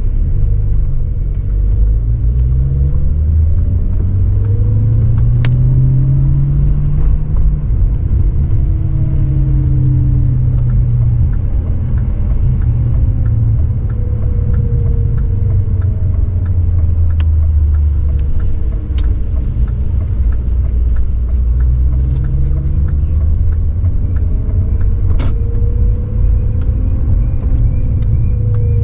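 BMW 540i's 4.4-litre V8 engine and exhaust under city driving: a low rumble whose pitch climbs and drops several times as the car accelerates and eases off. A few sharp knocks sound over it.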